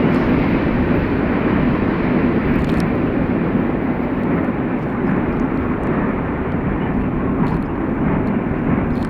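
BNSF freight train rolling past, its cars making a steady rumble.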